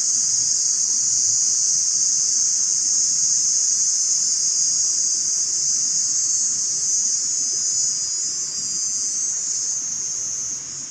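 Insect chorus in a forest: a continuous, high-pitched, shrill buzzing trill. It eases off over the last few seconds and drops away near the end.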